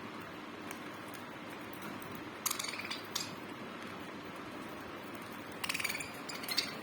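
Small birds giving short, buzzy chirps in two clusters, about two and a half seconds in and again near the end, over a steady background hiss.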